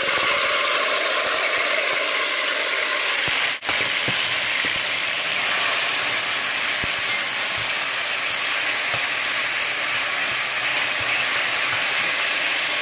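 Chopped onions, tomatoes, scallions, thyme and hot pepper sizzling loudly and steadily in hot oil as they are sautéed and stirred, with a brief break about three and a half seconds in.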